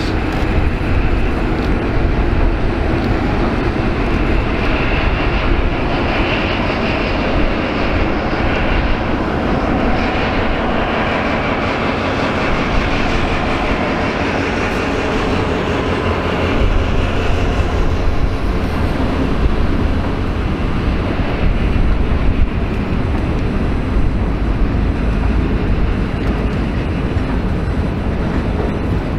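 Diesel-hauled freight train passing, a loud, steady rumble of locomotive engine and rolling wagons.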